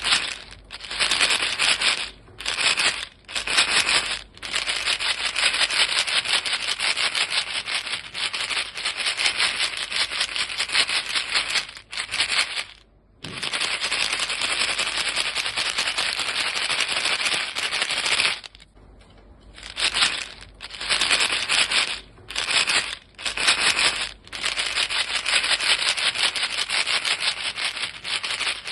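A box of chewing gum pellets shaken steadily, the pellets making a dense, fast rattle against the box. The rattle stops briefly several times, the longest pause about a second, around two-thirds of the way through.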